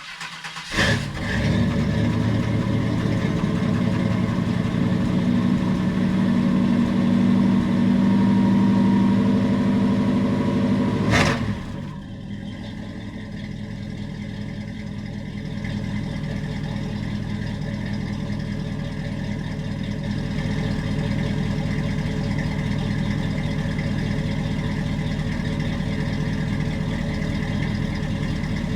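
Chevrolet 5.7 litre V8 in a 1978 Caprice starting from cold: it fires about a second in and runs at a loud, steady fast idle. About 11 seconds in there is a click, and it drops to a quieter, steady idle.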